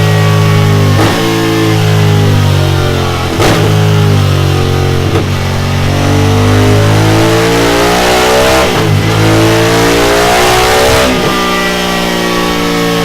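Honda Africa Twin's parallel-twin engine running on a dyno through a Delkevic carbon fibre end can, its pitch climbing repeatedly with sharp breaks between the climbs as it is run up through the gears.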